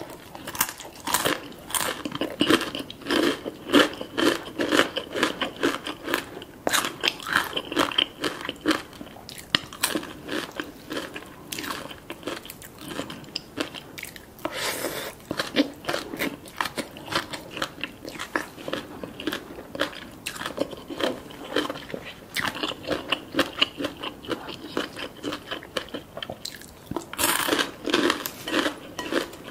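Close-miked crunching and chewing of a crispy chip, many sharp crunches in quick succession, followed by chewing a mouthful of crunchy shredded green papaya salad.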